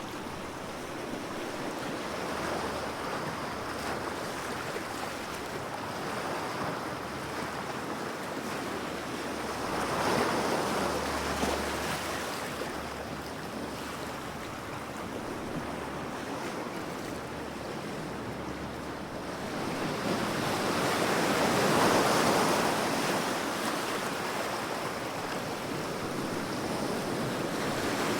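Ocean waves washing in and breaking on a shore, a continuous rush of surf that swells louder about ten seconds in and again at about twenty-two seconds. Wind rumbles on the microphone underneath.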